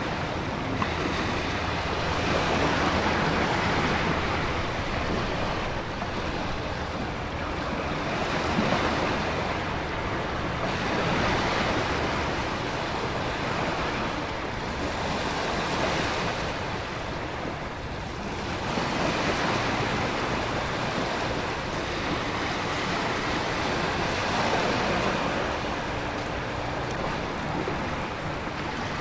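Storm ambience: heavy ocean surf swelling and breaking every few seconds over a steady rush of wind and rain.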